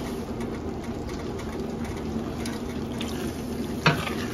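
Pot of chicken pot pie filling simmering and sizzling on the stove just after the burner is turned off, a steady rushing noise with a faint hum. A brief clack about four seconds in.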